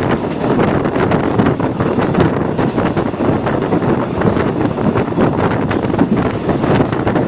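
Passenger train running, heard from inside the carriage: a steady rumble with constant small rattles and clicks, and wind rushing over the microphone.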